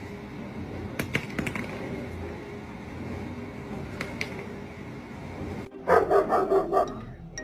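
A dog barking in a quick run of short barks near the end, after a stretch of steady low background noise with a few clicks.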